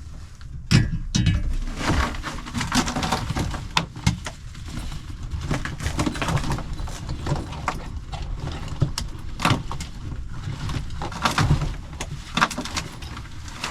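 Irregular knocks, clicks and rattles, with a steady low wind rumble on the microphone underneath.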